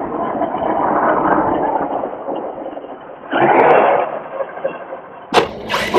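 Arrma Kraton EXB 6S brushless RC monster truck running and throttling, a noisy rush that fades, a short loud burst of throttle about three and a half seconds in, then two sharp impacts a little after five seconds as the truck lands nose-first.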